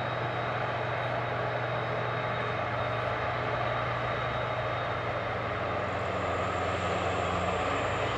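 Heavy machinery engine running steadily with a constant low hum, and a faint high whine in the last couple of seconds.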